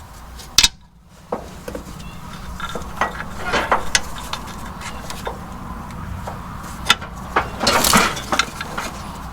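Metal tools and parts clinking and scraping as a fitting is worked by hand: a sharp clank just after the start, scattered clicks through the middle and a longer scrape near the end, over a steady low hum.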